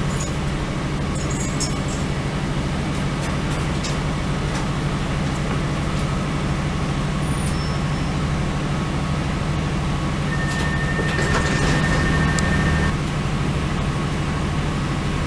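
Diesel multiple-unit passenger train running, a steady low drone with rumble. About ten seconds in it grows a little louder for a couple of seconds, with a thin high whine.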